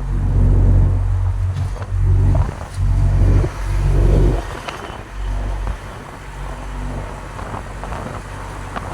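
Truck engine and road noise while driving, a low rumble that swells and fades.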